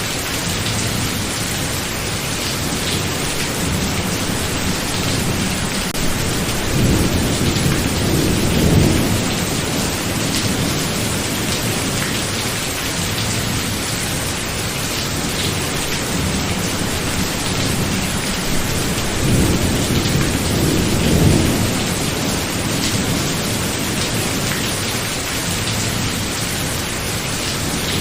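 Heavy, steady rain during a thunderstorm, with two long low rolls of thunder swelling and fading, one about a third of the way in and one about two-thirds in.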